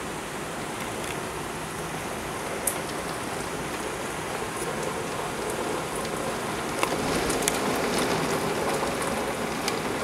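Heavy downpour hissing steadily, with sharp ticks of single drops striking close by, a few of them louder; the rain grows a little heavier about two-thirds of the way through.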